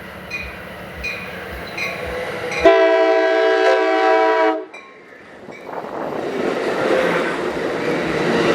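Amtrak Pacific Surfliner train's horn sounding one long blast of about two seconds that cuts off sharply. Before the blast there are regular strokes about twice a second. After it, the rumble of the train moving on the rails builds steadily.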